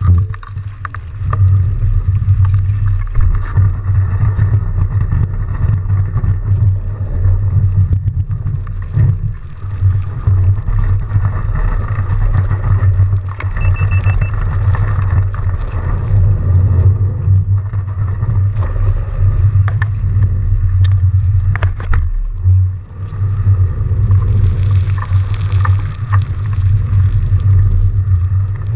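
Continuous, choppy low rumble of riding a fat bike through snow: tyre and wind noise while riding, with a hiss swelling near the end.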